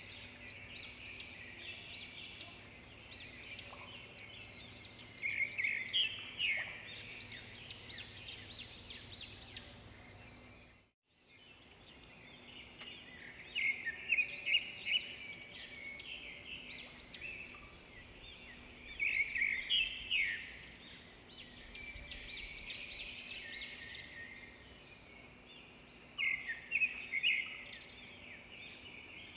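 Songbirds singing: bursts of quick high chirps and trills every few seconds over a faint steady background hum, with a brief dropout to silence about eleven seconds in.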